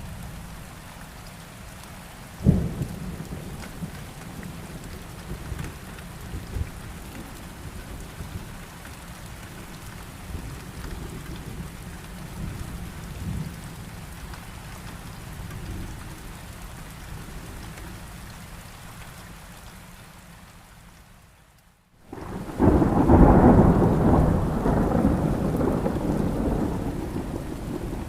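Thunderstorm with rain: steady low thunder rumble under the rain, a sharp thunderclap about two and a half seconds in, then the sound fades almost to nothing for a moment before a loud, long peal of thunder takes over near the end.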